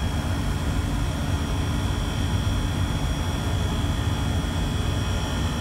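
Steady low mechanical rumble with a thin, steady high-pitched whine above it, unchanging throughout.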